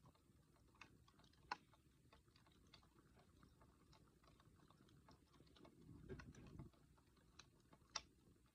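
Wood campfire crackling softly with irregular small ticks, and two sharper pops, about a second and a half in and near the end. A brief low rumble comes around six seconds in.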